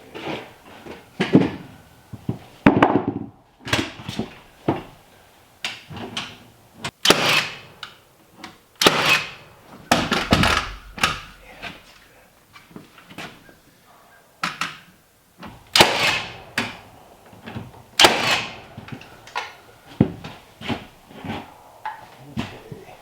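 A string of irregular knocks and thuds from lumber being handled and struck during timber frame carpentry. The knocks come one to two seconds apart, several of them sharp and loud.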